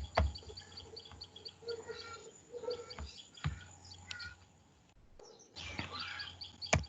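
A small bird chirping in quick repeated high notes, about four or five a second, faint in the background, with a few sharp clicks, the loudest near the end.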